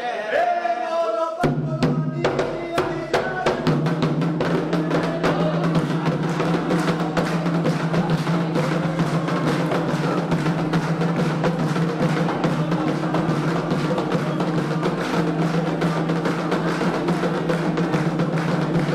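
Candomblé ritual drumming: atabaque hand drums start a fast, steady rhythm about a second and a half in. Before that, a stretch of chanted singing ends.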